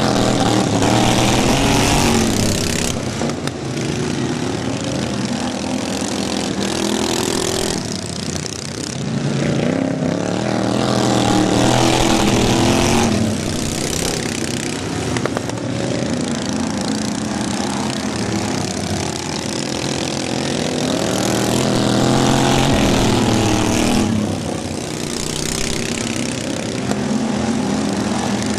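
Racing lawn mower engines running hard, their pitch rising and falling as the mowers come past, swelling loudest about every ten seconds.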